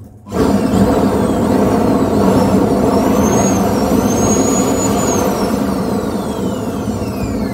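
Homemade waste-oil stove burning with its electric air blower running: a loud, steady rushing sound with a low hum that starts abruptly about a third of a second in. Faint high whistles glide up and down above it.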